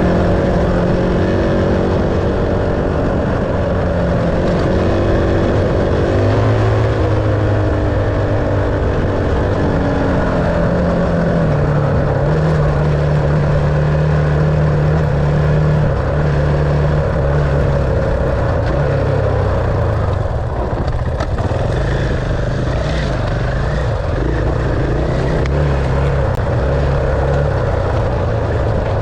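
Enduro dirt bike engine running under way, its revs stepping down and up several times with throttle and gear changes, over a steady rush of wind and ground noise.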